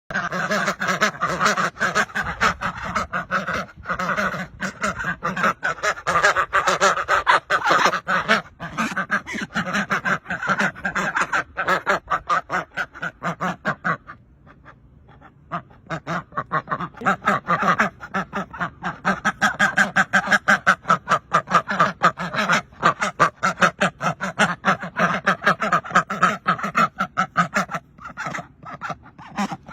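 A flock of birds calling continuously, many overlapping calls in quick succession, with a brief lull of about a second and a half just past the middle.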